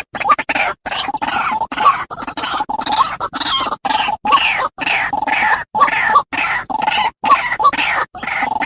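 White-breasted waterhen calling in a fast, harsh, repeated series, about two calls a second, each broken off by a short clean gap as in an edited lure recording.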